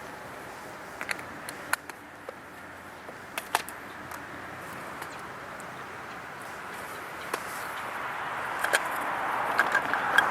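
An approaching vehicle, an even rushing noise that grows steadily louder over the last few seconds, with scattered sharp clicks.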